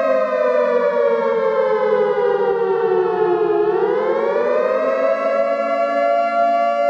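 Civil defense siren wailing: a steady tone that slides slowly down in pitch over about three and a half seconds, then rises back up and holds steady again.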